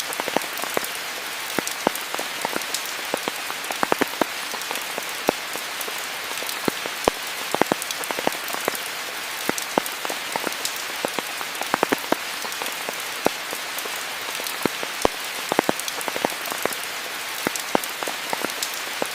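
Rain falling steadily: an even hiss with many sharp, separate drop impacts scattered all through it.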